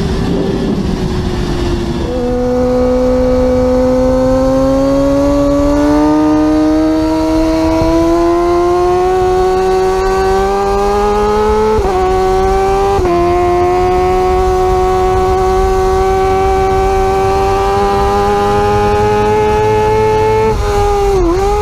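Superbike engine running at high revs under full throttle, its pitch climbing slowly for about ten seconds over a rush of wind. About twelve seconds in a quick gear change breaks the climb, and the revs dip briefly near the end.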